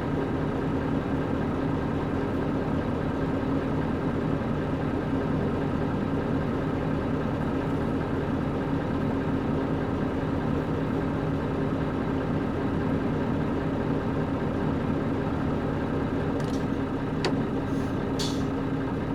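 PG6 diesel engine of a Nissan Diesel KC-UA460LSN one-step bus running steadily at an even pitch, heard from inside the bus. A couple of brief clicks and a short squeak come near the end.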